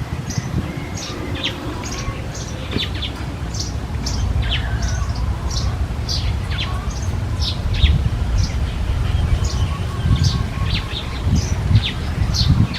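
Small birds chirping: many short, high chirps that sweep quickly down in pitch, several a second, over a steady low rumble.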